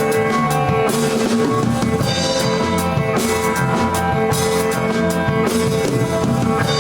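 Live rock band playing an instrumental passage between verses, with a drum kit keeping a steady beat under sustained guitar and bass.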